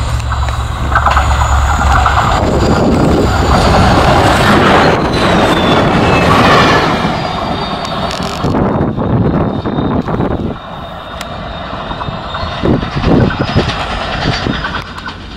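Diesel locomotive and its train passing close: a low engine drone, then a loud rush and rattle of wheels and wagons that ends about eight seconds in. After that, another diesel locomotive approaches more quietly.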